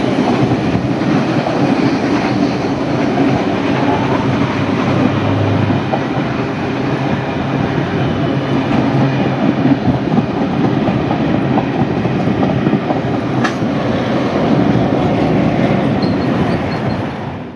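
A heritage passenger train's carriages rolling steadily past, steel wheels running on the rails in a continuous loud rumble.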